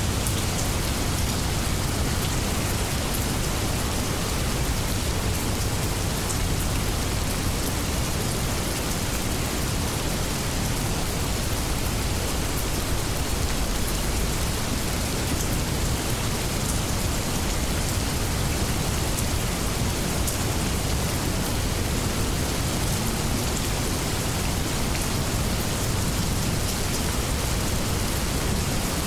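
Steady rainstorm: rain falling in an even wash with scattered drop ticks, over a constant low rumble.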